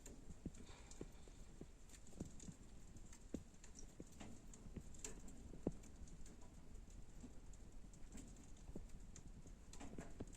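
Faint, irregular crackles and pops, typical of wood burning in a cast-iron stove-fireplace.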